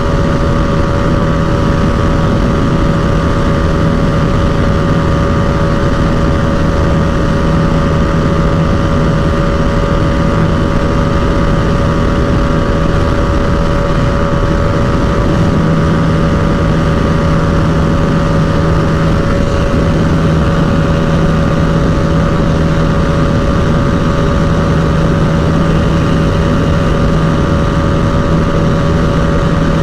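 Bajaj Dominar 250's single-cylinder engine running at a steady high speed under way, a loud, even drone with no gear changes or revving.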